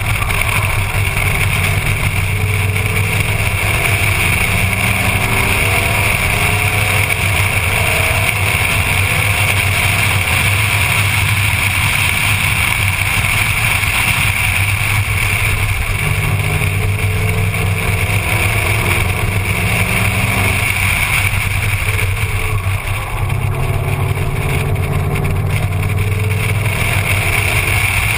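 Ford Mustang running hard on a road course, its engine revs rising and falling over and over through the lap, under a steady rush of wind and road noise picked up by a camera mounted outside the car.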